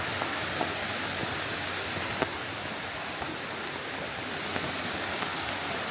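Steady hiss of falling rain, with scattered raindrop taps and one sharper tap about two seconds in.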